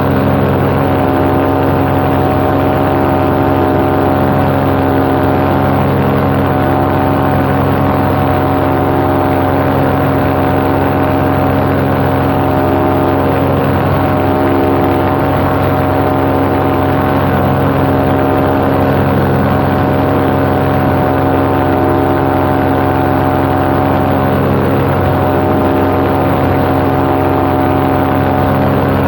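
Paramotor's backpack engine and propeller running at a steady cruise power in flight, with an even, unchanging drone.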